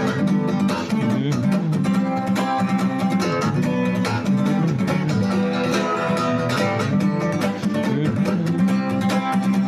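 Acoustic guitar playing an instrumental passage of a song.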